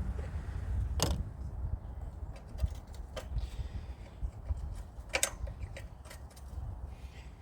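Wrench and bolt clinks while the metal cage frame is unbolted from a small pump engine: two sharp metallic clinks, about a second in and about five seconds in, with lighter ticks between them, over a low rumble.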